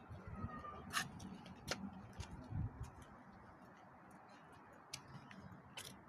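A few sharp clicks, four of them spread over several seconds, over a faint low rumble that swells and fades in the first half.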